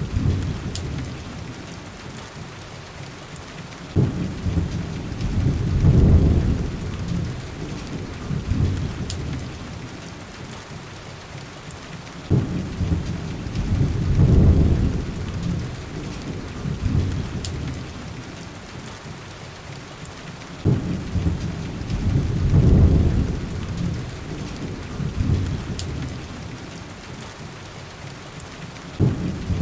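Heavy rain on glass, hissing steadily, with a deep low rumble that starts suddenly and swells and fades about every eight seconds. A few faint sharp crackles come through now and then.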